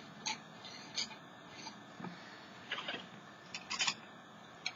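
Faint, scattered handling sounds of craft supplies on a tabletop: a handful of short scrapes, clicks and rustles a second or so apart.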